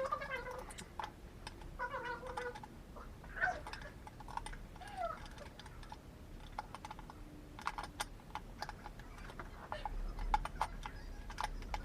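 A house cat meowing faintly a few times in short calls, mixed with scattered light clicks and taps.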